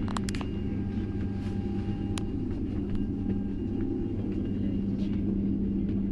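Steady low droning hum over a rumble, with a few sharp clicks in the first half second and another about two seconds in.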